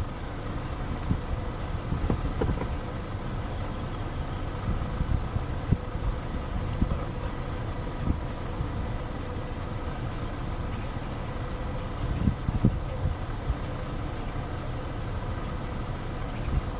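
Wind buffeting the microphone: a steady low rumble with irregular gusty thumps, and a faint steady hum underneath.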